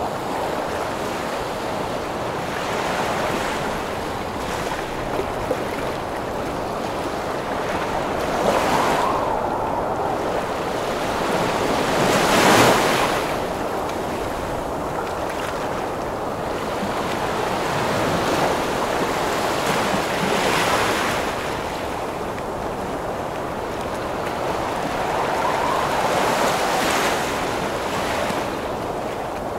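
Heavy ocean waves breaking and washing in under strong storm wind, a steady rush of noise that swells with each wave every few seconds. The largest wave crashes about twelve seconds in.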